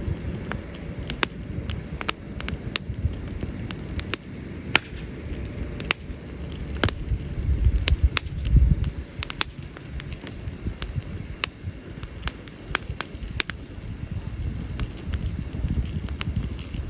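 Wood burning in a campfire, crackling with frequent irregular sharp pops, over a low rumble that swells about eight seconds in.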